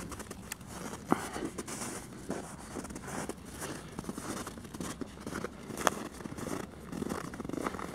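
Footsteps crunching through snow, an irregular run of short crunches with sharper clicks about a second in and again near six seconds.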